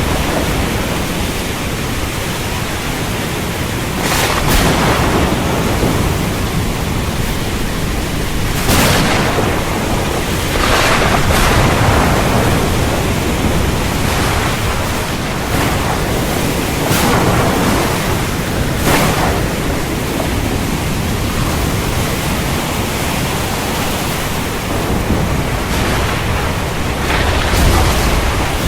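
Heavy rain falling steadily in a thunderstorm, with about eight sharp thunder cracks scattered through it, some coming in close pairs, over a constant low rumble.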